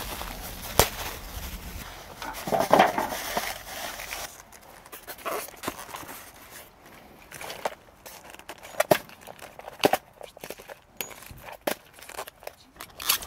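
Handling salt and cooking gear to salt-grill shrimp: a rustling hiss for the first few seconds, then scattered sharp clicks and taps.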